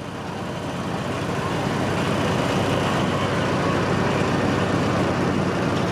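Tourist train rolling along the track: a steady rumbling rush of running noise with no clear pitch, growing louder over the first two seconds and then holding.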